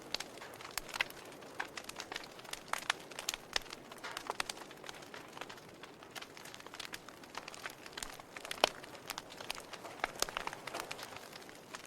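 Wood fire crackling in a fireplace: irregular sharp pops and snaps over a soft hiss of burning, with one louder pop a little past the middle.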